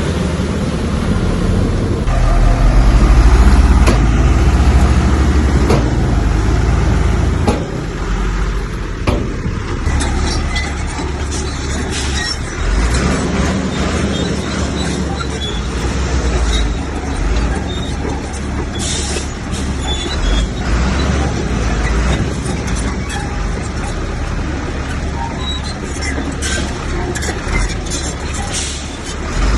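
Heavy diesel earthmoving machinery running. The engine is loudest for the first several seconds, then eases off at about seven and a half seconds, with scattered clanks and knocks throughout.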